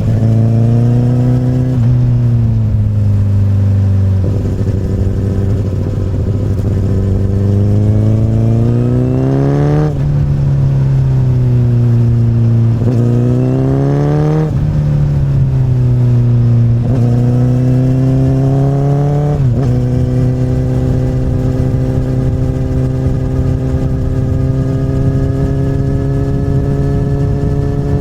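Honda CBR1000RR's inline-four running through an Akrapovic carbon slip-on exhaust, the revs climbing under acceleration. There are sharp drops in pitch about a third of the way in and again about halfway, typical of upshifts. The revs then ease off and jump back up about two-thirds in, like a downshift, before holding steady at cruising revs.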